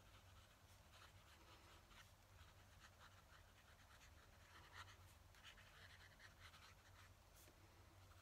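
Fountain pen nib scratching across paper in short, irregular strokes, faint, over a low steady hum.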